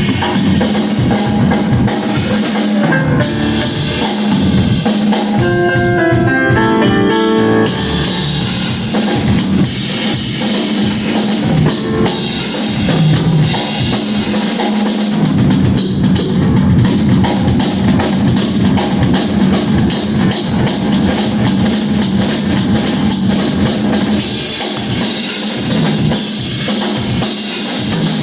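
Rock band playing live and loud, the drum kit driving with bass drum and snare. From about five to eight seconds in the cymbals drop out and a stepped melodic line plays on its own, then the full band crashes back in.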